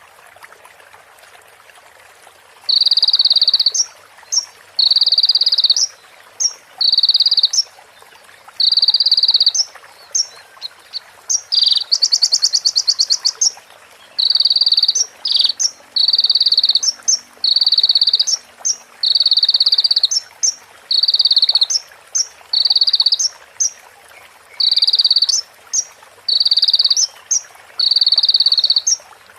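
Crimson sunbird (konin) singing a string of high, buzzy, rattling trills, each about a second long, mimicking a female prinia's (prenjak's) call, with short sharp chip notes between them and a louder, faster trill about twelve seconds in. A steady hiss runs underneath, and the first two seconds or so hold only the hiss.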